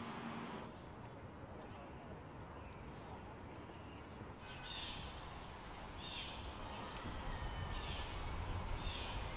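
Outdoor background with a bird calling four times, about once every second or so, over a steady low rumble.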